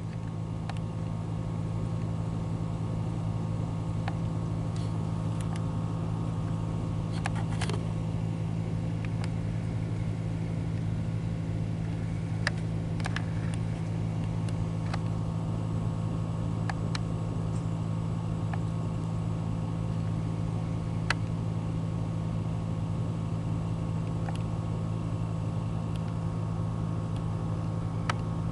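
Truck engine running steadily, a constant low drone, with a few faint sharp clicks.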